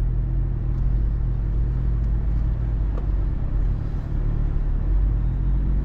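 Vehicle driving with a steady low engine and road rumble, holding an even pitch.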